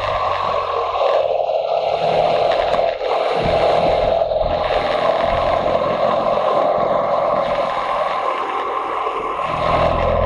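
Motorcycle running steadily on the road, with engine and wind noise blended into a loud, even rush.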